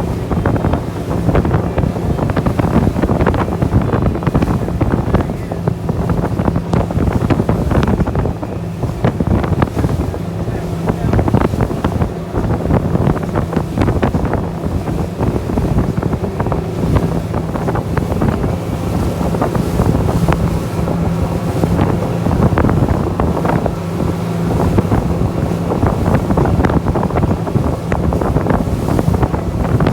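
Glass bottom tour boat's engine running steadily at speed, with wind buffeting the microphone and water rushing past the hull.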